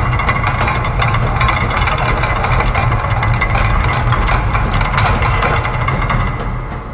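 Layered factory machine loops of gears, ratchets, clockwork and a press: dense, rapid mechanical clicking and ticking over a steady low hum, easing off slightly near the end.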